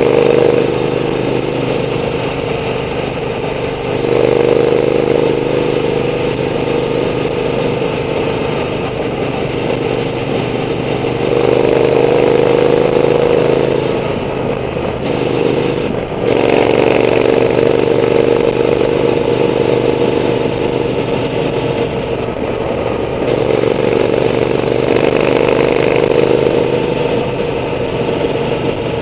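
Triumph Bonneville T120's 1200 cc parallel-twin engine through a Zard aftermarket exhaust, running steadily under way, with four louder stretches of a few seconds each as the throttle opens.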